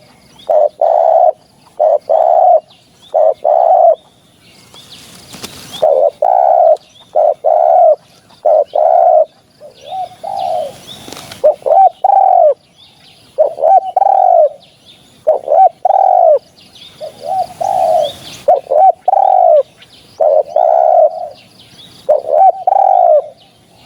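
Spotted dove cooing: phrases of two to four short, rounded coos repeated over and over, with brief pauses between them. Two short bursts of rustling noise fall between phrases, about five and ten seconds in.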